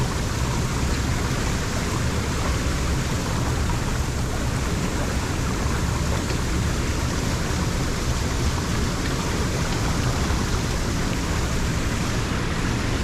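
Water rushing steadily into a lake drain, a constant loud flow; the drain is running again now that the debris blockage has been raked clear.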